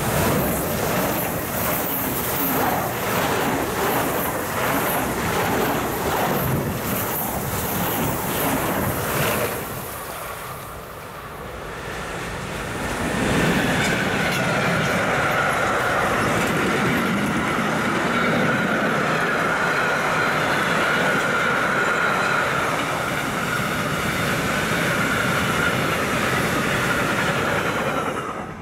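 A BR 412 ICE 4 electric high-speed train passes close by with a loud rush and repeated beats, fading about ten seconds in. A freight train of covered sliding-wall wagons then rolls past steadily, with a held high whine over the rumble of the wheels, until it cuts off abruptly at the end.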